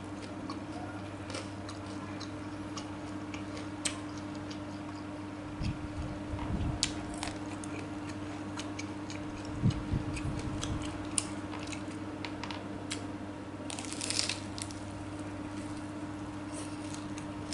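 A person eating vegetable-stuffed tofu close to the microphone: scattered chewing and biting noises and small clicks over a steady low hum.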